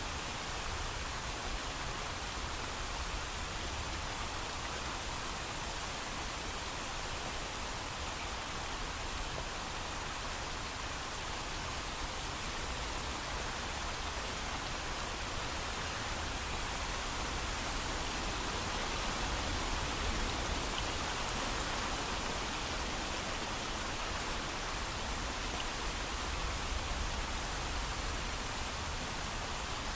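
Steady heavy rain with no thunder, an even hiss with no distinct drops or other events.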